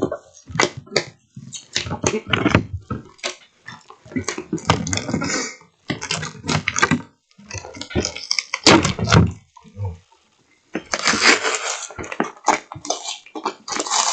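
A cardboard parcel being worked open by hand, with irregular crackling and rustling of packing tape and wrapping being picked at and pulled. There is a longer, denser stretch of tearing noise about eleven seconds in and again near the end.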